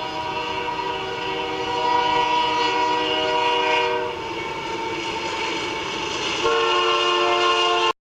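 Locomotive air horn sounding in long, loud blasts, easing off about four seconds in and coming back louder about six and a half seconds in, then cutting off suddenly near the end.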